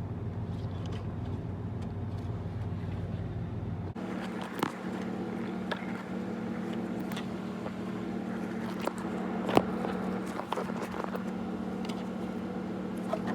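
Steady low machine hum, with scattered light clicks and knocks of parts being handled under a car's hood. The hum changes abruptly about four seconds in, and the clicks come after that.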